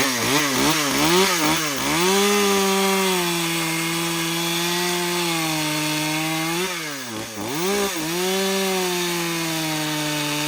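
Small ported two-stroke Echo CS-310 chainsaw, blipped up and down a few times and then held at high revs, cutting wood. Its pitch dips sharply about seven seconds in, pulls back up, and falls near the end. The chain is pretty stinking dull.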